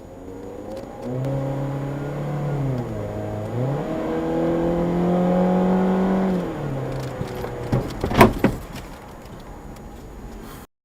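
A car engine accelerating, its pitch climbing, dipping briefly and climbing again before falling away. About eight seconds in come a few sharp, loud knocks.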